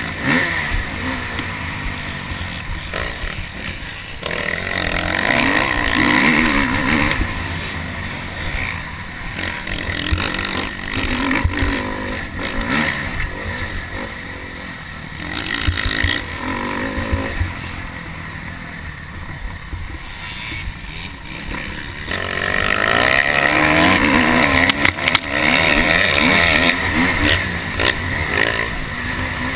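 Motocross dirt bike engine revving up and falling back again and again as it is ridden hard round the track, loudest in a long surge near the end, with wind rumbling on the microphone.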